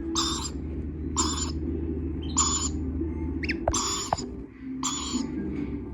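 Lorikeet chicks calling: short, harsh, raspy screeches repeated about once a second, over a steady low hum.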